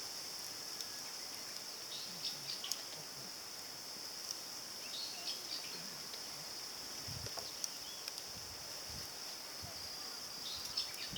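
A steady, high-pitched chorus of insects trilling, with scattered faint clicks and ticks, and a few soft low thuds about seven to nine seconds in.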